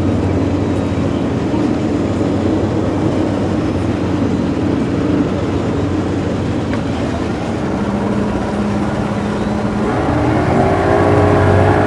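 A motor engine running steadily, then revving up and getting louder about ten seconds in.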